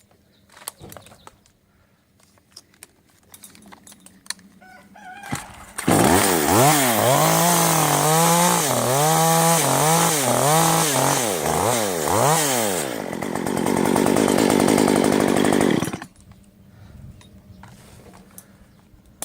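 Two-stroke chainsaw engine starting up and being revved in about seven quick rises and falls in pitch, then held at high speed for a few seconds before it cuts off suddenly.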